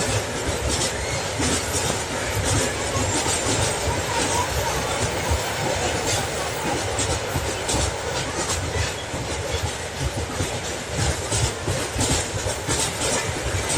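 Freight train wagons rolling past, their wheels clacking steadily over the rail joints over a constant rumble.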